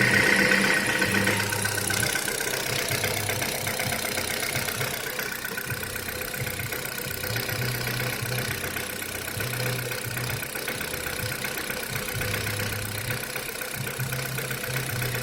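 Third-generation Kia Rio's engine idling cold, with the knocking on a cold start that the owner is recording. It runs steadily, a little louder in the first couple of seconds.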